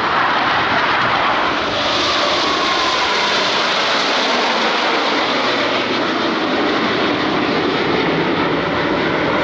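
Loud, steady jet engine noise from Blue Angels F/A-18 Super Hornets flying the display, with a falling whine about two seconds in as a jet passes.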